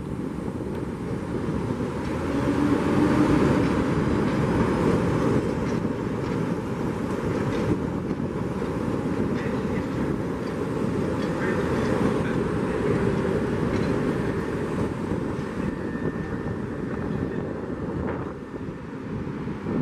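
Chicago 'L' rapid-transit train rolling past on elevated steel track: a steady rumble of wheels on rail, with a few sharp clicks over rail joints.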